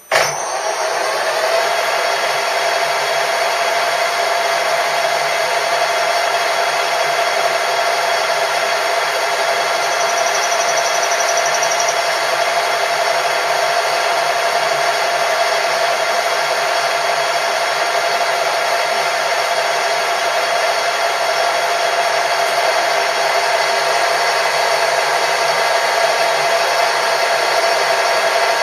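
Electric machine-tool motor switched on, spinning up within about a second and then running steadily with a constant whine.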